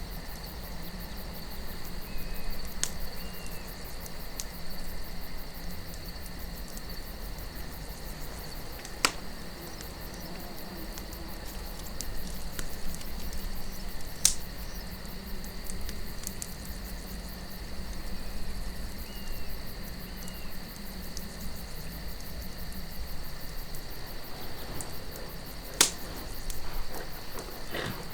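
Campfire night ambience: crickets chirping steadily over a low wind rumble, with a few sharp pops from the burning wood, four of them standing out above the rest.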